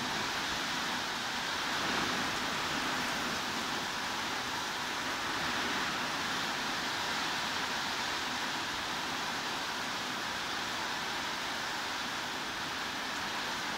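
Steady heavy rain, an even unbroken hiss with no single drops standing out.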